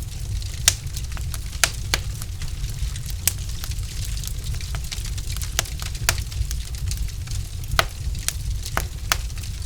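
Wood fire crackling in a fireplace: irregular sharp pops and snaps from the burning logs, a few louder cracks among many small ticks, over a steady low rumble.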